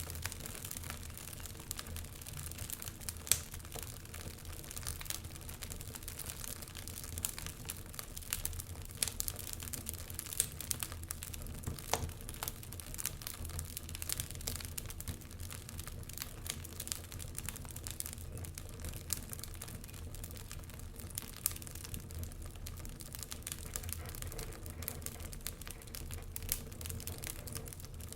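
Wood fire crackling: irregular pops and snaps of burning wood, some sharper than others, over a low steady hum.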